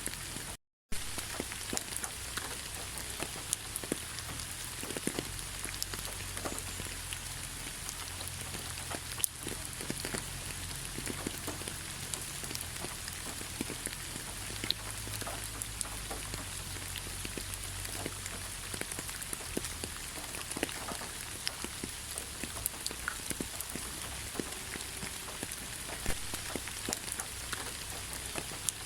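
Steady rain falling in a forest: a continuous hiss with many individual drops ticking close by. The sound cuts out completely for a split second just under a second in.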